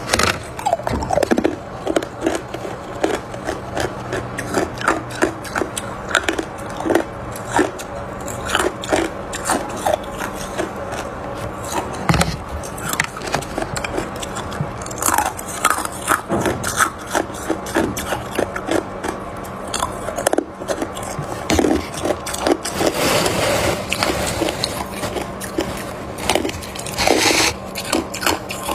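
Hard crushed ice being bitten and chewed close up: a dense, irregular run of sharp crunches, over a faint steady low hum.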